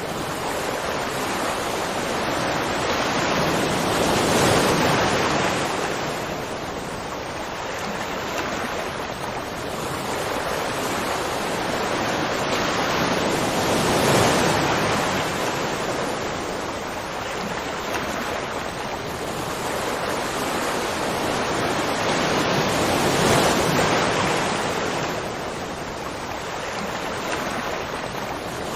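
Steady rushing of water, a dense even noise that swells and eases slowly about every nine to ten seconds.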